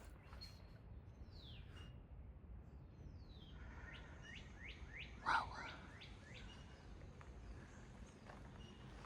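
Wild birds calling: a few scattered high chirps, then a quick run of about six downward-slurred notes about four to six seconds in, one of them louder, over a low steady rumble.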